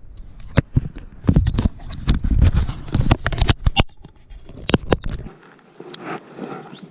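Handling noise on the camera: a quick run of sharp clicks and knocks as the GoPro is fastened back into its mount. About five seconds in it cuts to a much quieter background.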